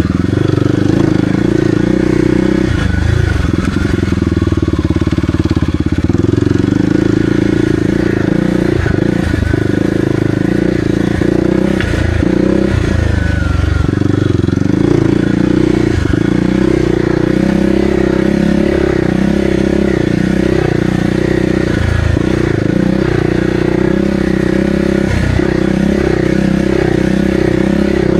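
Kawasaki KLX300R's single-cylinder four-stroke engine running under way on a dirt trail, its pitch rising and falling with the throttle.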